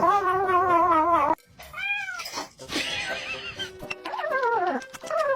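Domestic cat yowling. A long, wavering call is followed by a short arched call and then two shorter calls that fall in pitch near the end.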